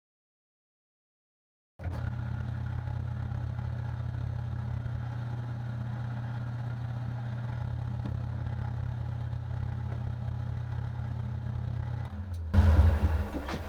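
A machine tool's electric motor running with a steady low hum, drilling into a 4140 steel block. It starts about two seconds in after dead silence; near the end the hum changes and a louder, rougher low rumble sets in.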